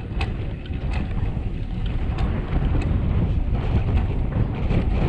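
Wind buffeting the microphone of a camera on a road bike descending at speed, a steady low rumble that grows a little louder, with a few sharp ticks in the first three seconds.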